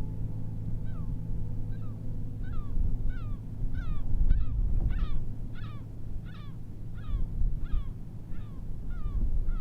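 Geese honking: a steady series of short, falling calls, about one every 0.7 s, starting about a second in, over a low rumble of wind and surf. A sustained music note fades out at the start.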